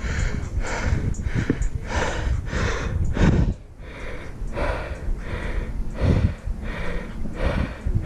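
A mountain biker panting hard while pedalling uphill: quick, even breaths about two a second, with a short pause about halfway through, over a steady low rumble on the microphone.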